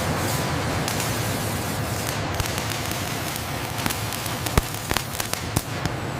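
A steady hiss with a few sharp cracks scattered through it, most of them in the second half.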